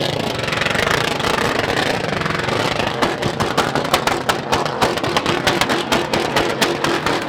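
Truck engine running at high revs during a burnout, breaking into a fast, irregular run of sharp pops and cracks from about three seconds in.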